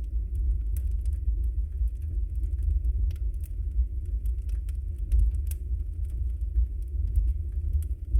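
Wood fire burning, with many small sharp crackles and pops scattered over a steady low rumble.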